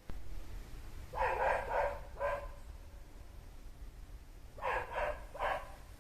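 A dog barking in two short bouts of three barks each, a couple of seconds apart.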